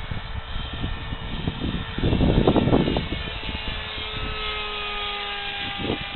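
Brushless electric motor and 6x5 propeller of an AXN foam RC plane whining, its pitch slowly sinking. Gusts of wind buffet the microphone about two seconds in and again near the end.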